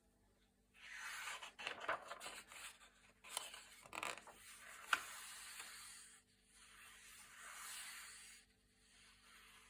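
Thick glossy paper pages being turned and handled: crisp rustling with a few sharp snaps of the stiff paper, then a softer swish of a page settling.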